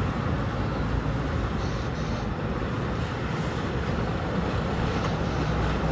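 Steady low rumble of a heavy vehicle's engine running, at an even level with no distinct knocks or changes.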